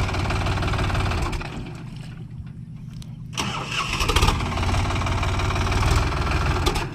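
Tractor engine running with a steady low pulsing beat. It eases off after about a second and a half, picks up again sharply about three and a half seconds in, and drops back near the end.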